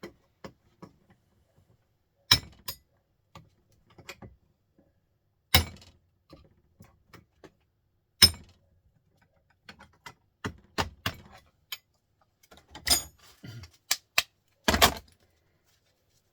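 Sharp metal knocks and clanks as a small printer motor's casing is worked apart with a pry bar on a vise. The knocks come irregularly every two to three seconds, with a quick run of lighter clicks about ten seconds in.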